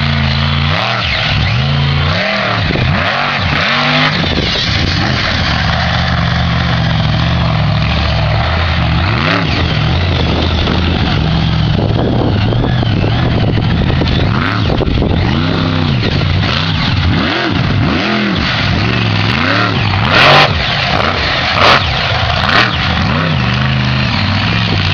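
Monster truck engine running loudly, blipped again and again so that its pitch rises and falls, with two brief louder bursts near the end.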